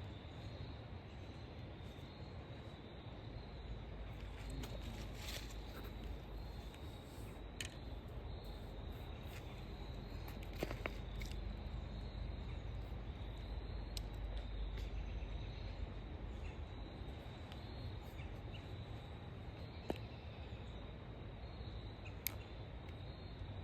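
Outdoor ambience: a steady low rumble with a faint, even high insect trill running under it, and a few scattered small clicks.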